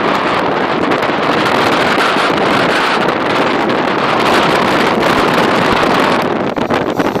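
Strong wind buffeting the microphone in a loud, steady rush, mixed with the Walkera V450D03 electric RC helicopter flying; the rush gets choppier near the end.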